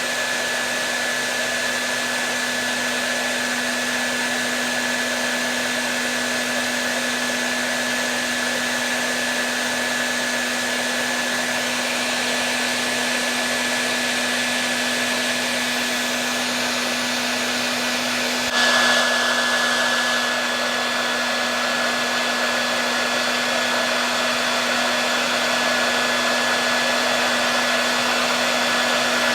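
Hair dryer blowing steadily: an even rushing of air with a constant high whine and a low hum. A little past halfway it briefly gets louder and its tone shifts, then settles again.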